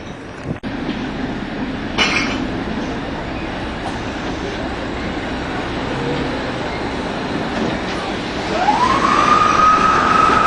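A train whistle sounds about eight and a half seconds in, rising in pitch and then held as one long steady tone, over a steady rumble.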